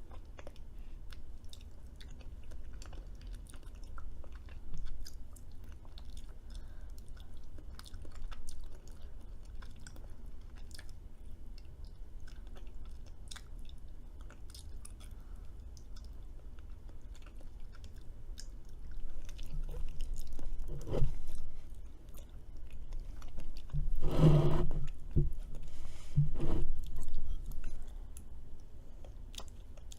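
Close-up chewing and mouth sounds with many small clicks, louder for a few seconds past the middle and again near the end.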